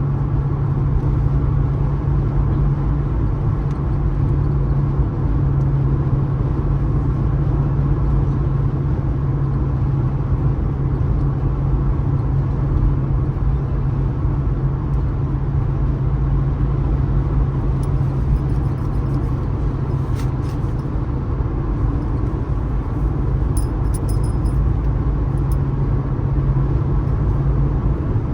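Car on the move: steady road and engine rumble with a constant low hum, and a few faint ticks in the second half.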